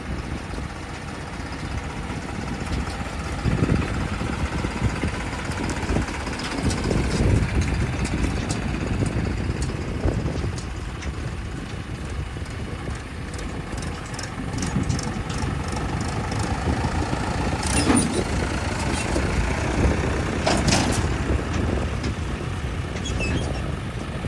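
Heavy diesel machinery running steadily, the engine sound swelling and easing, with two short sharp noises about three-quarters of the way through.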